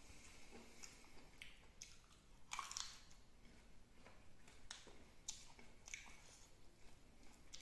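Faint chewing and short mouth clicks of a person eating a rice meal with his fingers, with a louder cluster of clicks about two and a half seconds in.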